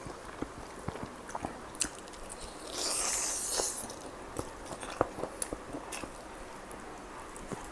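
A person chewing and biting into chicken kalmi kabab, with many small wet clicks of the mouth and one louder, crunchy burst of about a second near three seconds in.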